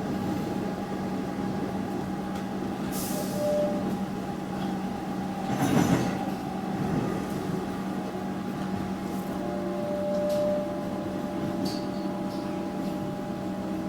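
Melbourne Metro suburban electric train running, with a steady motor hum over rolling wheel and track noise. There is a short louder rumble about six seconds in, and a few brief high hisses or squeals.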